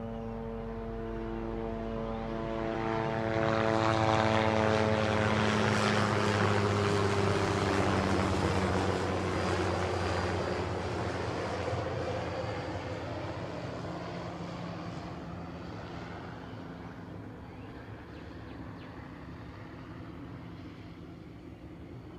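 Police helicopter passing low overhead: its engine and rotor drone grows louder, drops in pitch as it goes by about four to eight seconds in, then slowly fades away.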